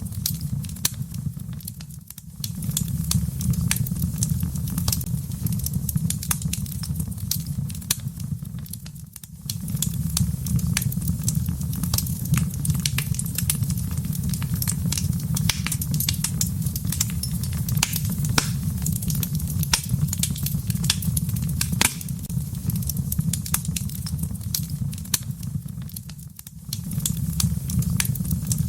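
Wood fire burning in a fireplace: many sharp crackles and pops over a steady low rumble of the flames. The sound dips briefly three times.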